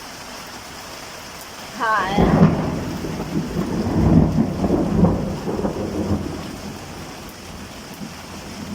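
Steady rain, then about two seconds in a thunderclap breaks into a deep rolling rumble that swells twice and fades away over about five seconds.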